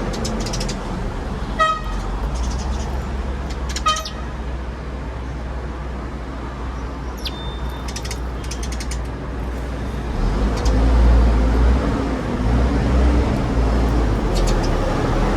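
Steady low rumble of road traffic, swelling louder in the second half. Two short pitched calls come about two seconds apart near the start, and a few brief high chirps come in the middle.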